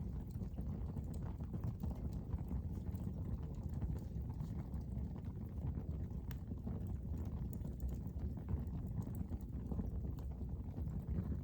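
Fire burning in a fireplace: a steady low rumble of flames with scattered small crackles and pops.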